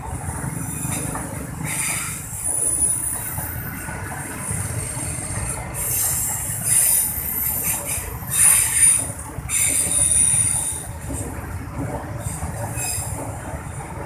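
Long passenger train rolling past with a steady rumble of wheels on rail. High-pitched wheel squeal comes and goes several times, loudest about two-thirds of the way through.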